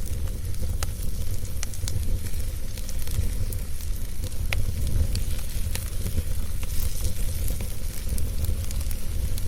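Wood fire burning in a fireplace: the steady low roar of the flames under a crackling hiss, with sharp pops scattered throughout.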